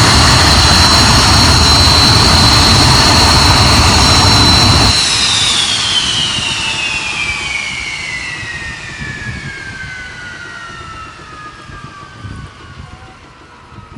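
Hawker Hunter's jet engine running steadily with a high whine, then shut down about five seconds in: the rushing noise drops away and the whine falls steadily in pitch as the engine spools down.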